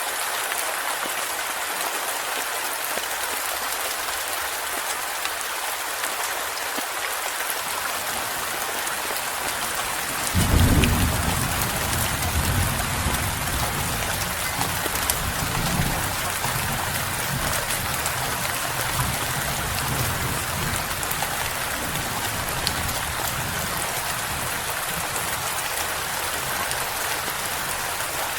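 Steady heavy rain hiss. About ten seconds in, a deep thunderclap rumble breaks in suddenly and rolls on, fading over the next several seconds.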